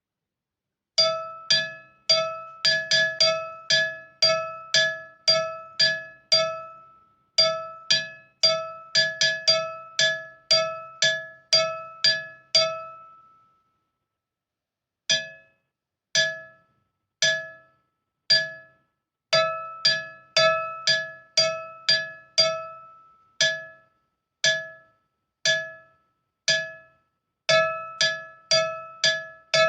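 Timbales struck in rhythmic patterns. Each stroke rings with a bright, metallic tone, and the runs are broken by short pauses, with one longer pause about halfway through.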